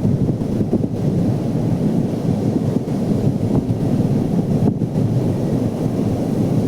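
Steady low roar of ocean surf breaking on a beach, mixed with wind buffeting the microphone.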